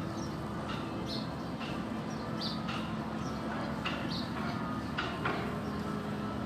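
Background ambience: a steady low hum and rumble, with short, irregular chirps of small birds scattered throughout.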